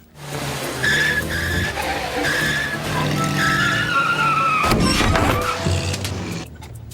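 Cartoon soundtrack: background music with sound effects, including high squealing tones that slide slowly down and a sudden noisy hit about five seconds in.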